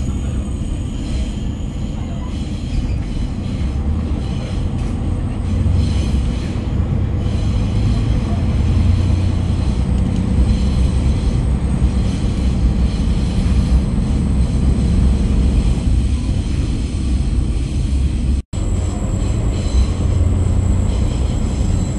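A KiHa 40/47 diesel railcar running along the line: a steady low rumble of engine and wheels on the rails that swells a little partway through. The sound cuts out for an instant about 18 seconds in.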